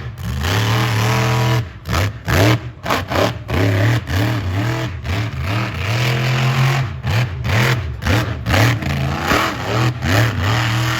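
Monster truck engine revving hard in a fast series of throttle blips, its pitch swooping up and down several times a second between steadier stretches at the start and end.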